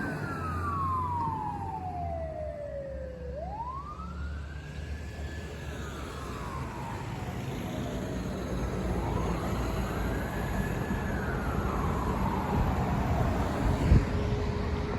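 Fire ladder truck's siren on a slow wail, gliding down and then rising and falling in long sweeps, with the truck's engine rumbling underneath. A short knock near the end.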